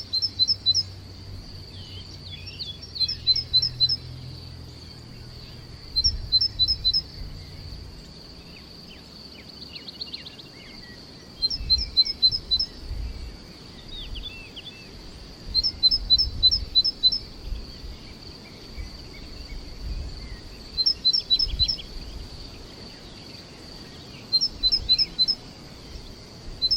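A songbird singing a short phrase of five or six quick, high, clear notes, repeated about every four to five seconds. Fainter chirps from other birds are heard between the phrases.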